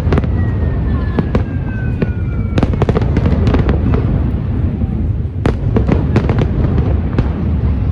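Fireworks display: a steady low rumble of aerial shells going off, with many sharp bangs and crackles. A falling whistle sounds over the first couple of seconds.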